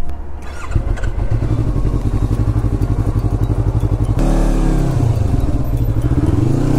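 Yamaha MT-03 motorcycle's parallel-twin engine running with a steady, pulsing note from about a second in. Just past four seconds the note changes to a louder one that rises and falls with the throttle, as the bike gets under way.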